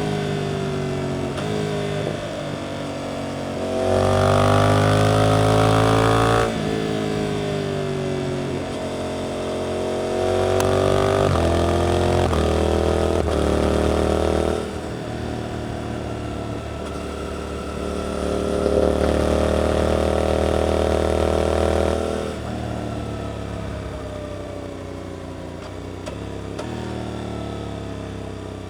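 Suzuki GSX-8S parallel-twin engine through an aftermarket Arrow exhaust, under way: three times it pulls hard and gets louder, and between the pulls the revs drop back with a falling note as the throttle is closed.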